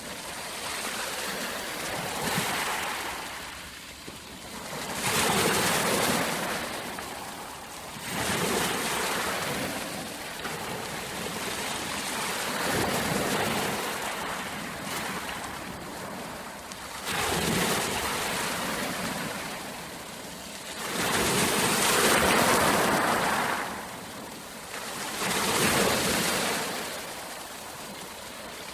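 Rushing water, swelling and fading every four to five seconds.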